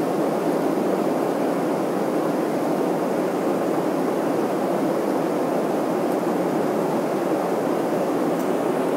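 Steady airliner cabin noise in flight: the even rush of the jet engines and airflow, unchanging in level.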